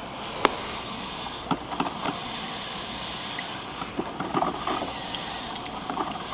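Sunbeam drip coffee maker brewing: a steady hiss of steam with scattered small pops and clicks.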